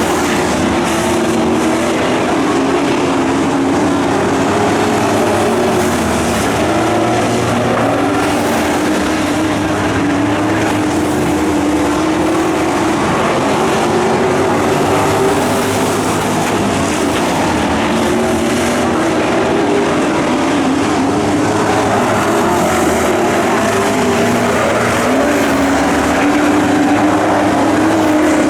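Pro racing trucks' engines running at speed in a dirt track race. Several engines overlap, their pitch rising and falling again and again as they rev and lift through the laps.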